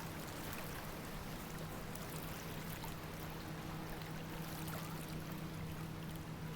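Steady rush of flowing water, with a low steady hum under it.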